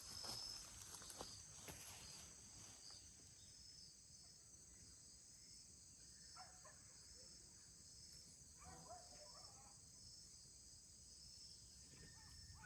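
Faint insect chirping: a steady high trill that pulses regularly, with a couple of brief faint calls in the middle.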